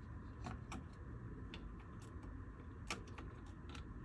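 Light, irregular clicks and ticks of plastic steering-wheel parts being handled and fitted together, with one sharper click about three seconds in.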